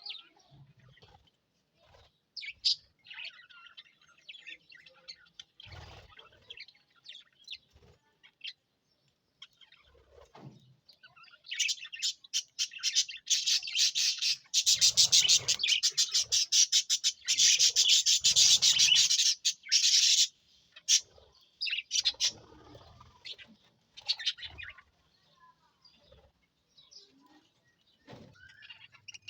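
A flock of budgerigars chirping and chattering, a few scattered calls at first, then a dense, loud burst of rapid chirping through the middle that thins out again near the end.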